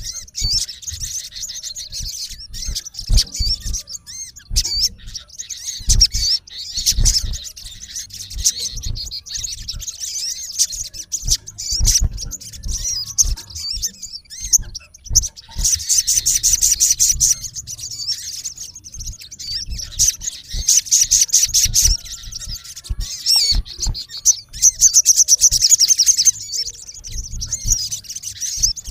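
Male olive-backed sunbird calling: fast, high-pitched chirps and trills given almost without pause, with denser rapid runs about halfway through and again near the end, typical of a male calling at a rival.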